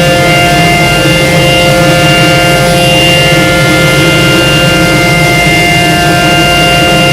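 Ryko Soft Gloss automatic car wash machinery running, a loud steady roar with several steady whining tones.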